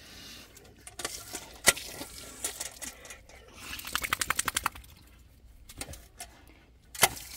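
Sharp clicks and knocks as a dog plays with his water fountain, including a quick rattling run of ticks about four seconds in.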